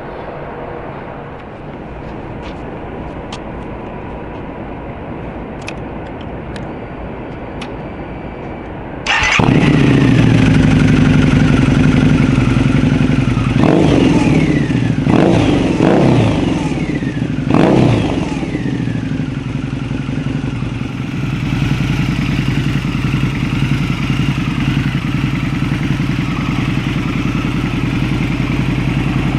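Custom Harley-Davidson Night Rod's liquid-cooled V-twin starting up abruptly after a steady hum, blipped about four times, then settling into a loud, steady idle.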